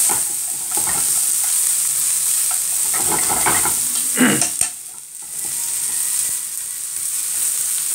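Shell-on prawns and sliced onion sizzling in oil in a nonstick frying pan, nearly cooked, with light clicks of wooden chopsticks turning them against the pan. The sizzle dips briefly about five seconds in.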